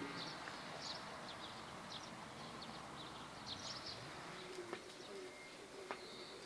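Small birds chirping in short, high, scattered calls, with a dove starting to coo low and steadily about five seconds in. Two sharp clicks come near the end.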